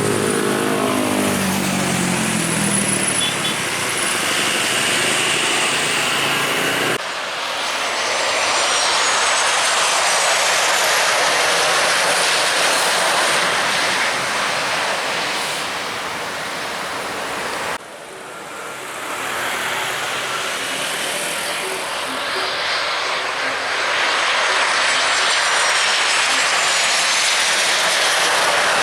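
Airliner engines passing close by: a loud, steady rush with high whining tones that slide downward. The sound changes abruptly about seven seconds in and again near eighteen seconds, where separate clips are joined.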